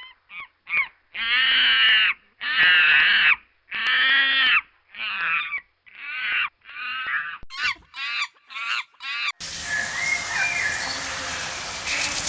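A bird calling over and over in loud, harsh, pitched calls, a few of them about a second long and the rest shorter. About nine and a half seconds in, the calls give way to steady outdoor background noise with faint chirping.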